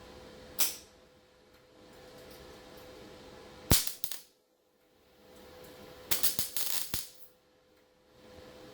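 Welder striking three short tack welds on sheet-metal body panel, each a brief burst of crackling: a quick one under a second in, a half-second one near the middle, and a longer one of about a second near the end.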